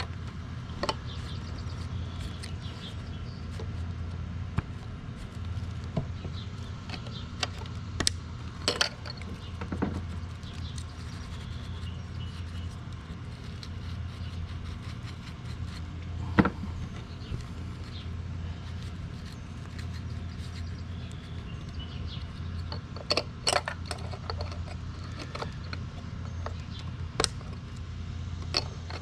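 Scattered sharp clicks and taps of detailing tools and bottles being handled around a car's engine bay, over a steady low hum.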